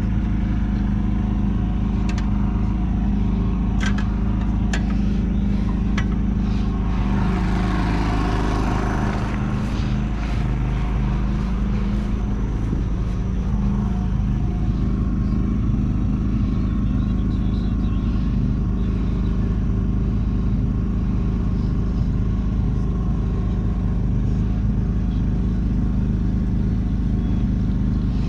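A diesel engine running steadily at a constant speed, as from the John Deere 450C bulldozer. There are a few sharp clicks in the first six seconds and a brief swell of hissing noise around eight to ten seconds in.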